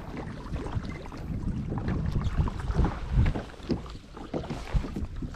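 Low wind rumble on the microphone with irregular knocks and clicks from handling gear on a fishing kayak.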